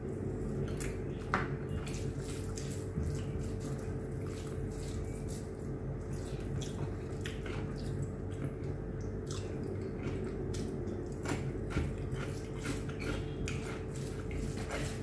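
Close-up eating sounds: wet chewing and lip-smacking of chicken biryani, with fingers squishing and mixing rice on the plate, heard as many irregular small clicks over a steady low hum.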